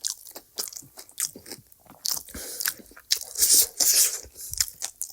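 Close-miked eating: a person biting and chewing crunchy food in a quick run of crisp crackles, loudest about three and a half seconds in.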